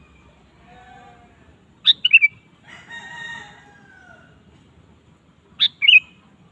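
Sooty-headed bulbul (kutilang) giving two short, loud bursts of song, one about two seconds in and one near the end. A fainter, longer call that falls in pitch at its end sits between them.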